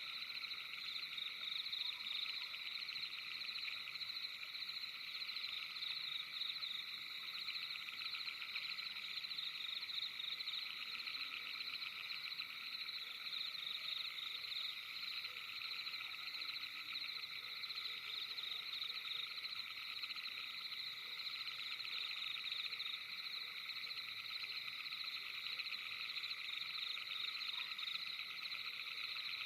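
Steady night chorus of many frogs calling together: a dense, fast trill that carries on without a break.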